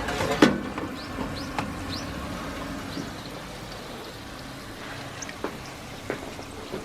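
Pork belly frying in hot oil for lechon kawali: a steady sizzle with irregular pops and crackles, one sharp pop about half a second in.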